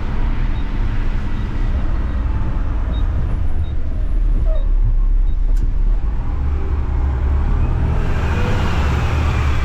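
Front-load garbage truck's diesel engine running with a steady low drone as the truck is driven slowly; about eight seconds in it grows louder.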